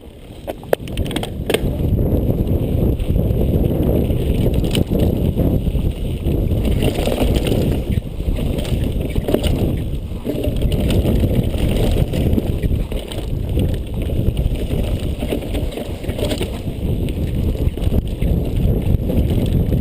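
Downhill mountain bike riding down a dirt track: a steady rush of wind on the microphone and tyres on dirt, with scattered knocks and rattles from the bike over the bumps. The noise builds over the first couple of seconds as the bike picks up speed.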